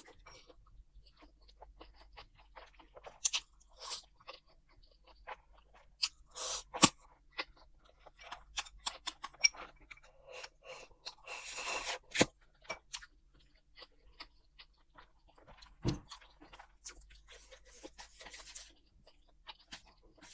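Close-miked eating: irregular chewing and crunching of food, with a few sharp clicks along the way.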